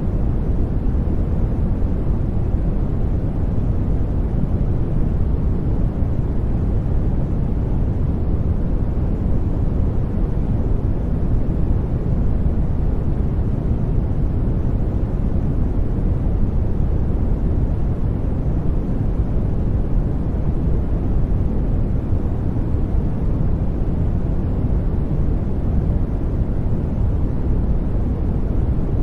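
Steady generated noise, a deep, even rushing sound weighted toward the low end, with no change in level or pitch.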